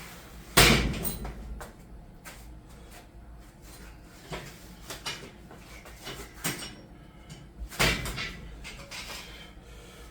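A heavy bang about half a second in, then scattered knocks and clicks, and another sharp bang near the end: things being handled and set down hard, like a door or cupboard shutting.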